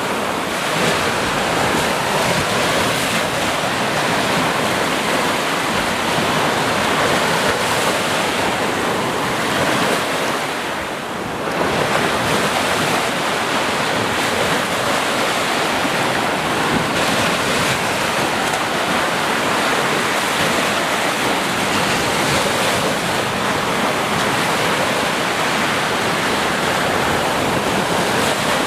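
Ocean surf: waves washing in continuously, with a brief lull about eleven seconds in.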